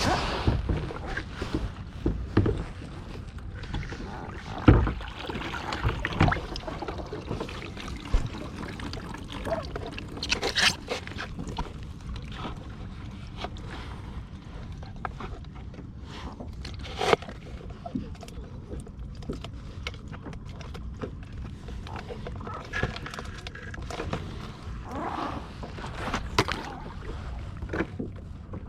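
Fishing kayak on the sea: water sloshing against the hull over a steady low wind rumble, with irregular knocks and scrapes on the boat, the loudest about five seconds in.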